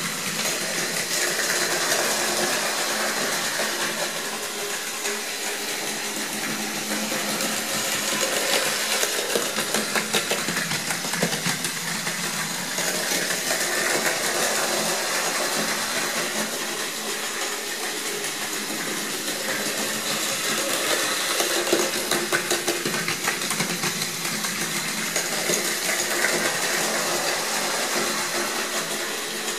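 Plarail Advance battery-powered toy Shinkansen running on its plastic track: a small electric motor whirring steadily with fast, fine clicking and rattling of the wheels and track. The level swells and eases gently every several seconds.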